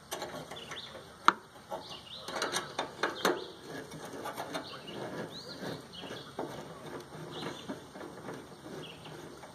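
Metal clicks and knocks from a microwave being taken apart by hand, with one sharp click about a second in and a run of clatter a second later. Birds chirp now and then in the background.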